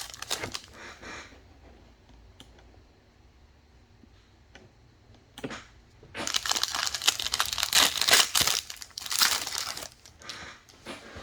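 Trading card pack wrappers crinkling and tearing as packs are opened. A few seconds of quiet with a few small clicks come first, then a long stretch of loud crinkling from about six seconds in.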